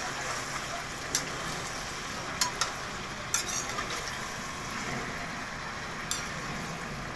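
Whole eels with chilies frying in a pan with a steady sizzle, stirred with a spatula that clicks against the pan about five times.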